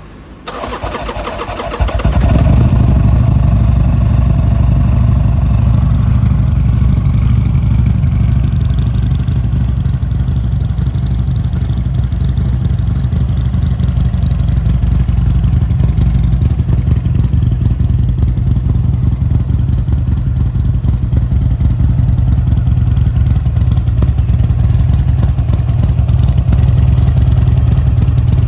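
2009 Buell Lightning CityX XB9SX's 984 cc fuel-injected V-twin engine being started: the electric starter cranks with a whine for about a second and a half, the engine catches about two seconds in, then idles steadily through its carbon-fibre muffler.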